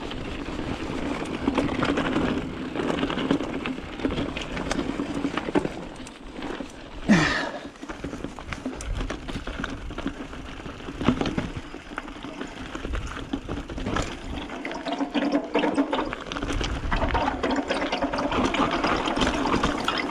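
Mountain bike ridden over a rough dirt-and-rock trail: tyres rolling with a steady rushing noise, and the bike rattling and knocking over the bumps. A brief falling squeal sounds about seven seconds in.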